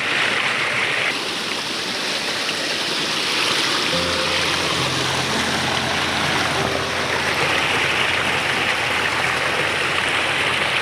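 Brook water rushing and splashing steadily, with soft music of slow, held notes laid over it.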